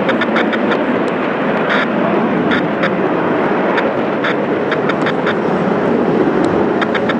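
Steady jet roar from a departing F-15 fighter, with a scattered sharp crackle running through it.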